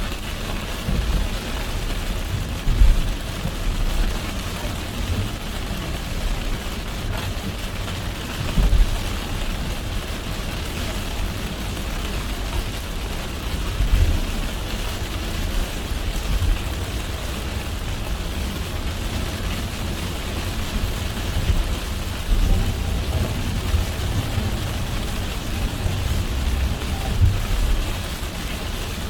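Car driving in heavy rain: a steady hiss of rain on the car over a low rumble of tyres on the wet road, with a few short low thumps.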